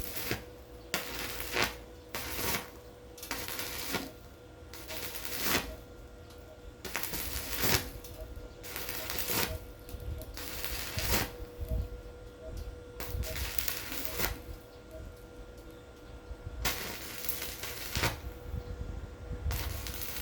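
Irregular clattering and scraping of handled hard objects, in short noisy bursts every second or two, over a faint steady hum.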